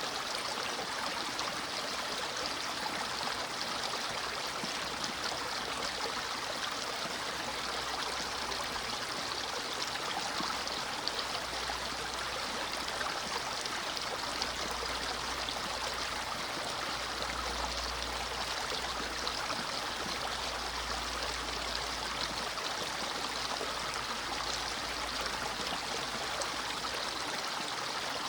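Small brook flowing, a steady rush of running water.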